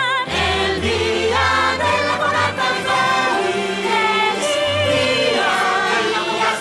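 Festive song sung by a choir of voices over instrumental backing with a steady bass line.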